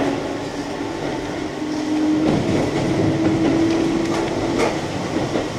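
Keihan Main Line electric train running between stations, heard from inside the car: a steady rumble of wheels on rail, with a level hum that sets in about two seconds in and stops near the end, and a sharp click just before the end.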